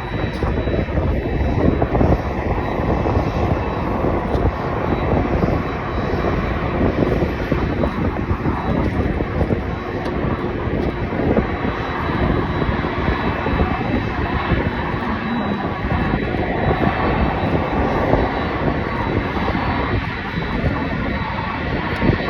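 Jet airliner's engines at takeoff thrust: a steady, loud rumble with a faint high whine over it.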